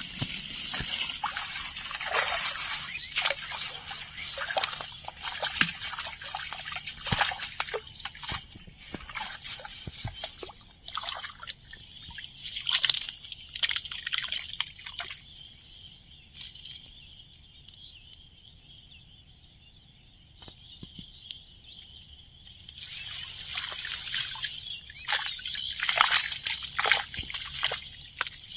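Water sloshing and splashing in irregular bursts, dying down for several seconds in the middle before picking up again.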